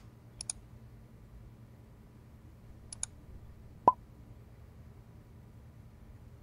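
Two quick double clicks, like a laptop trackpad or mouse, then just before the four-second mark a short rising plop: a chat-message notification sound.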